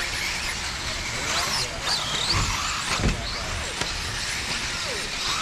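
Radio-controlled off-road cars racing, their motors whining up and down in pitch as they are throttled, with a few knocks about two and a half to three seconds in.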